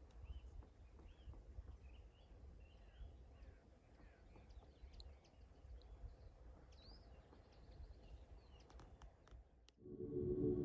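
Faint small-bird calls, short chirping notes repeated over a low steady rumble. A few clicks come late on, then soft ambient music fades in near the end.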